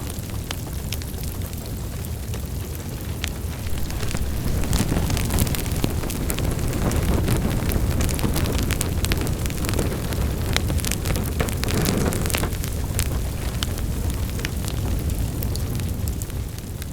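Wood fire burning in a fireplace: a steady low rumble of flames with frequent sharp crackles and pops. It grows livelier about four seconds in.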